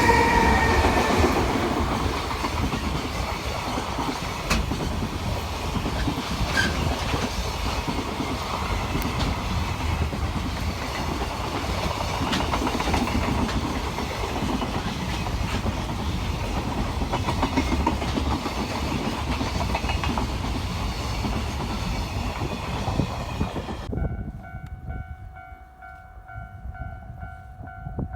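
A freight train hauled by a DE10 diesel locomotive passing, its sound loudest at the start with pitches that fall as it goes by, followed by a long run of container wagons rolling past with the clickety-clack of wheels over rail joints. Near the end the train noise cuts off abruptly, leaving only a faint steady tone.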